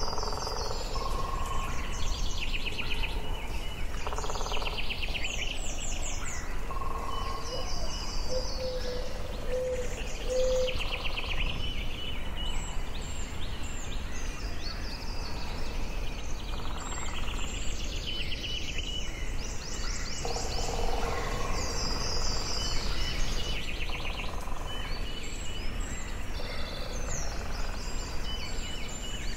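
Forest birdsong: several songbirds singing overlapping trills and chirps throughout, with a run of short, lower notes about a third of the way through, over a steady low background rumble.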